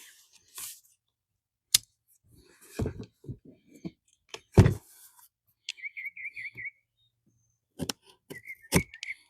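Packaging for a new plastic armrest being handled and opened, with scattered sharp clicks, knocks and rustles, the loudest about two, five and nine seconds in. A bird chirps a quick run of high notes about six seconds in.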